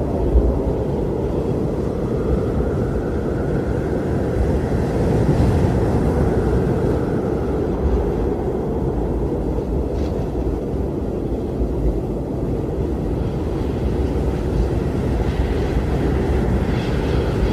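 Strong blizzard wind blowing steadily, mostly low in pitch, with a faint howling tone that rises and falls a few seconds in.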